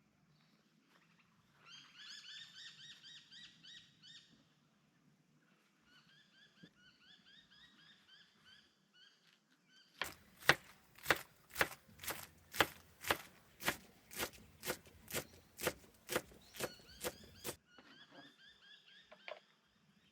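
Birds calling in runs of quick, repeated pitched notes. About ten seconds in, a steady series of sharp knocks starts, about two a second for some seven seconds, louder than the birdsong. It stops suddenly and the calls resume.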